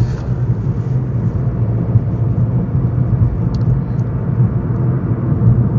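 Steady road and engine rumble inside a moving car's cabin with the windows closed, a deep even hum with tyre noise over it.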